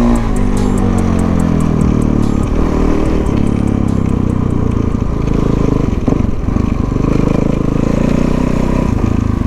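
Dirt bike engine running and revving, its pitch dropping at the start and then rising and falling with the throttle.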